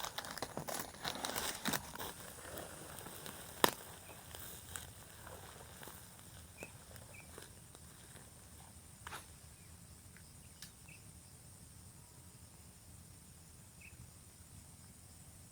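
Rustling for the first few seconds with one sharp click, then a steady high insect drone with a few faint chirps.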